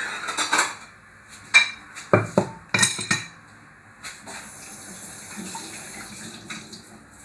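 Kitchen utensils and dishes clattering: a few sharp knocks and clinks about two to three seconds in, then a fainter steady hiss of running water.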